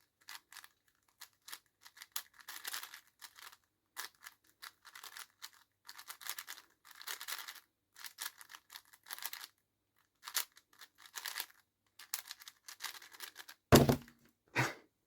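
A 5x5 speedcube's layers being turned fast, giving irregular flurries of plastic clicking and rattling. A loud thump near the end.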